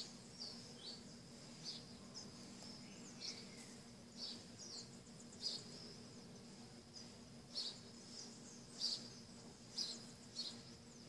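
Birds chirping in the background: short high calls about once a second, some sliding down in pitch. Under them runs a faint, steady high-pitched drone.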